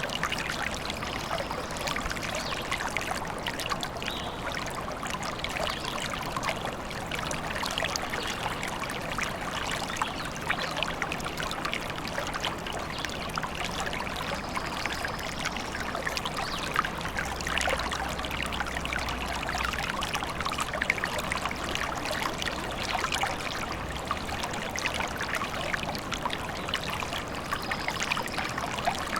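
Small forest stream trickling and babbling steadily over stones, a continuous splashy rush of water.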